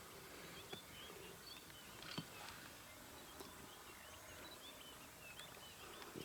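Faint outdoor bird chorus: many short, hooked chirps from small birds, repeated throughout, with a few soft clicks.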